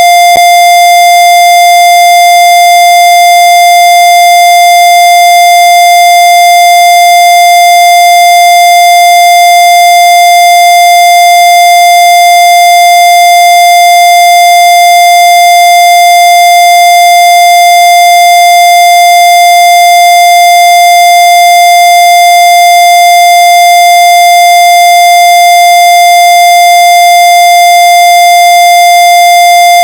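Loud, steady electronic tone held at one unchanging pitch with strong overtones, without any break.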